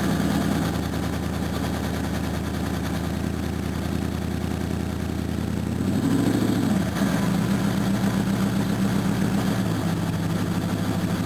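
Holden 308 V8 running at a fast idle just after a hard cold start, with a brief rise and fall in revs about six seconds in.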